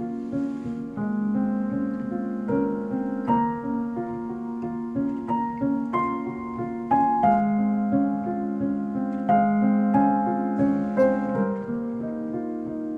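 Piano music played back through a pair of Visaton FR10 4-inch full-range drivers in small bass-reflex cabinets, picked up by microphone: a steady run of struck, sustaining notes.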